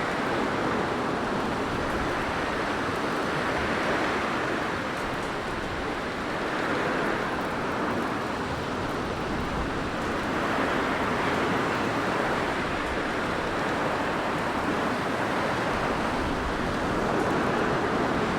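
Blizzard wind blowing as a steady rushing noise, swelling and easing in slow gusts every few seconds.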